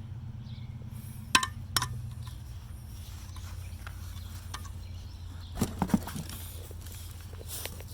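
Sharp metallic clinks of parts being handled: two about a second and a half in, then a quick cluster of three near six seconds, over a steady low hum.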